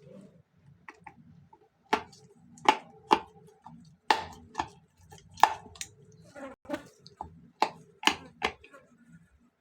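About a dozen irregular sharp clicks and taps of small tools against small plastic and metal parts during a hands-on repair, over a faint steady low hum.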